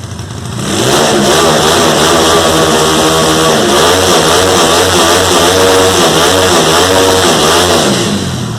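Honda CG Fan motorcycle's single-cylinder engine, bored out to 249 cc with high compression for ethanol, revved up and down repeatedly. The revving starts loud about a second in and eases off near the end.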